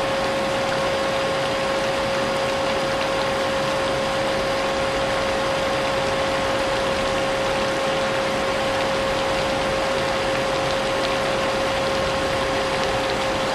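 Vacuum cleaner running steadily with a constant high motor whine, mixed with a steady rush of rain.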